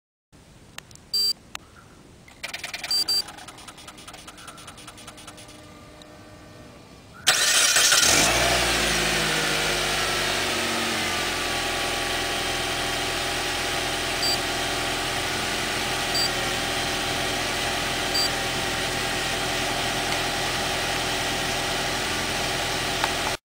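Mitsubishi Outlander started remotely: a couple of short beeps, then about seven seconds in the engine cranks and catches with a brief rev flare and settles into a steady idle. Faint short chirps come about every two seconds while it idles.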